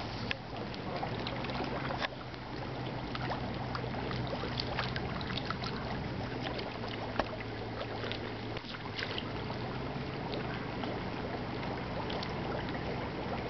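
Water lapping, with many small splashes and ticks from mallard ducks dabbling, over a steady low hum.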